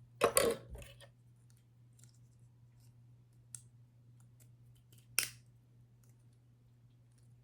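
Plastic model airplane parts handled and clicked together as the engines are fitted onto the wings: a short clattering rattle right at the start, a faint tick midway, then one sharp click a little past halfway.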